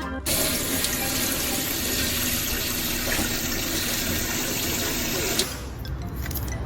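Steady rush of running water that stops about five seconds in.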